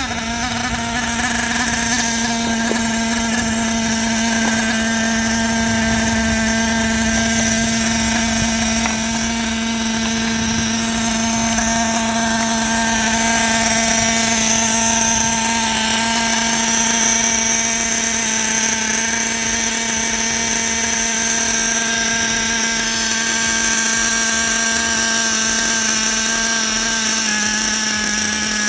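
Small nitro-fuelled glow engine of an RC car running steadily at one constant pitch, neither revving up nor dying down.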